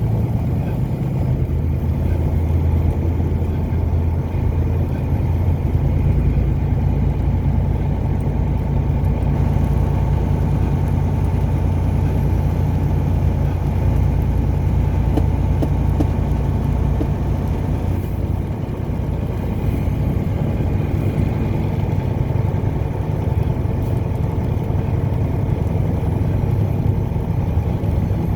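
Car being driven: a steady, unbroken low rumble of engine and road noise.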